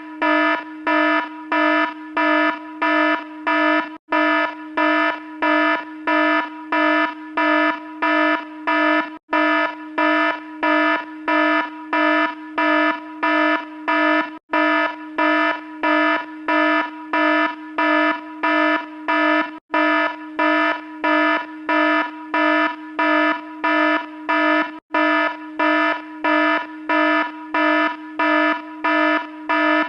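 Electronic alarm buzzer sounding in rapid pulses, a little under twice a second, a harsh buzzing tone. It repeats as a loop, with a short break about every five seconds.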